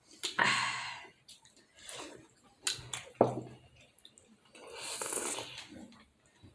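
Close-miked mouth sounds of someone eating momos: two long, noisy slurps or sucked-in breaths, with a few sharp wet clicks from the mouth between them.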